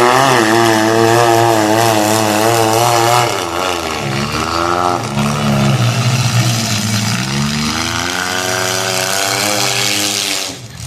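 Demolition derby cars' engines revving hard, their pitch rising and falling unevenly as the cars push and ram.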